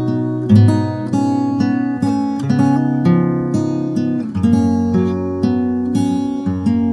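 Acoustic guitar music: a slow, relaxing piece of plucked and strummed notes and chords, a new note or chord about every half second.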